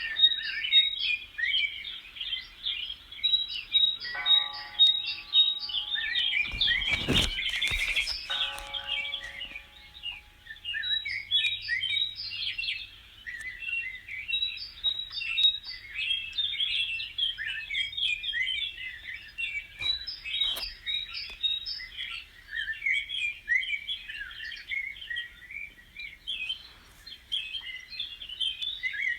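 A dense chorus of many small birds chirping and twittering without a break. A loud rustling burst comes about seven seconds in, alongside a few seconds of steady, lower sustained tones.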